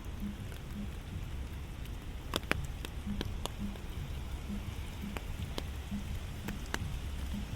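Steady rain falling, with drops landing close by as scattered sharp taps over a low, even rumble.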